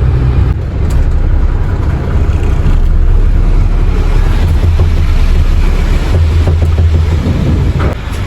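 Heavy engine running with a loud, steady low rumble while scallops are loaded at the quay; a short knock near the end, after which the rumble eases slightly.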